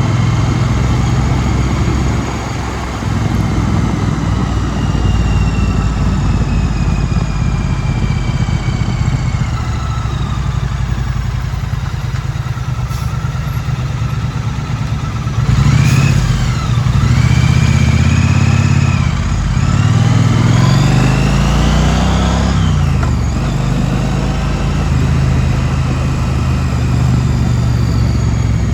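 2016 Triumph Street Twin's 900 cc parallel-twin engine running on the road, its note sagging gently at first; about halfway through it opens up and the pitch rises, drops at a gear change, rises again and drops, then settles into a steady cruise.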